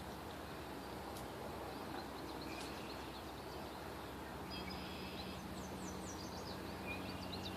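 Small birds chirping and twittering in quick series of short high notes, thickest in the second half, over a steady outdoor background hiss.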